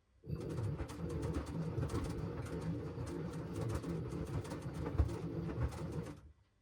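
LG washing machine drum turning during a wash cycle, laundry and water sloshing and tumbling with many small clicks, for about six seconds before the drum stops.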